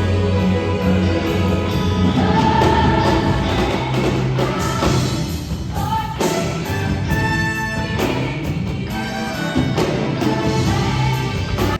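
Gospel music: a choir singing over band accompaniment, loud and continuous.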